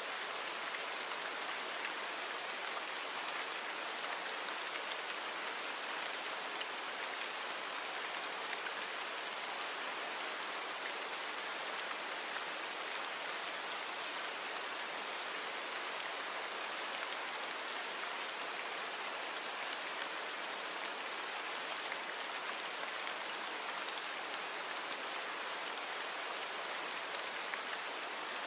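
Steady rain falling, a dense even patter of many fine drops with little low rumble.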